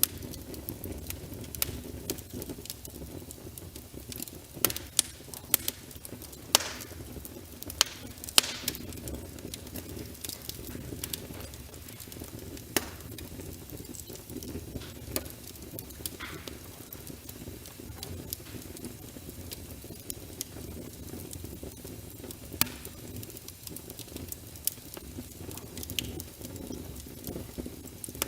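Wood logs burning in a fireplace: a steady low rumble and hiss of flames, broken by sharp crackles and pops at irregular intervals. A handful of louder pops come close together in the first third.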